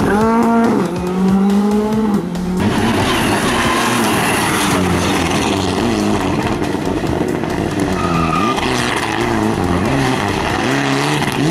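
Rally car engine at high revs and changing gear: the pitch climbs for the first two seconds or so, drops sharply, then rises and falls repeatedly.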